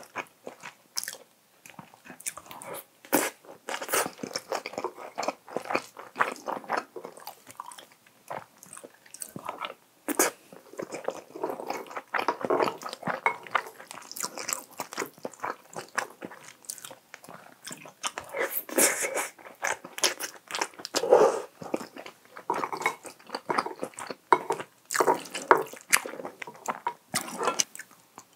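Close-miked mouth sounds of eating: wet chewing, smacking and bites of soft tofu stir-fry mixed with rice, taken from a spoon. The sounds come in irregular short bursts.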